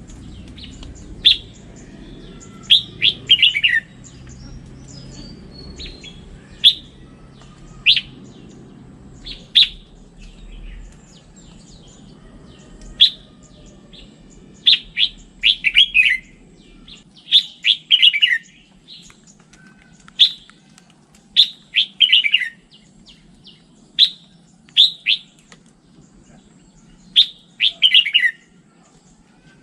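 Red-whiskered bulbul singing: short, bright phrases of quick falling notes, repeated every second or two. A low background rumble sits underneath and fades out about halfway through.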